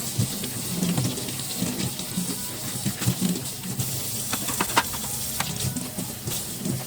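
Kitchen cleanup at a sink: a steady hiss with scattered sharp clicks and clinks of dishes and utensils being handled.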